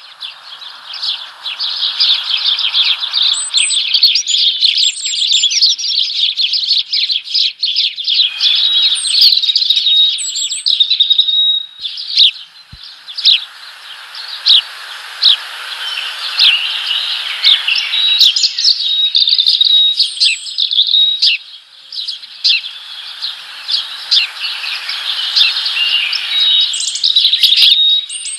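Small birds chirping rapidly and continuously, many short high notes in quick succession, picked up by a microphone inside a birdhouse. A softer hiss-like noise comes and goes several times under the chirping.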